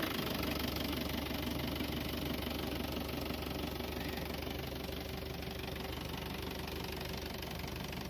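Ford Transit diesel engine, fitted in a GAZelle van, idling steadily, settling down from a slightly higher speed just as it begins.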